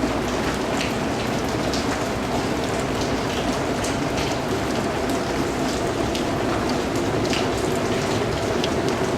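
Steady rain falling, with many separate drop hits heard over an even hiss.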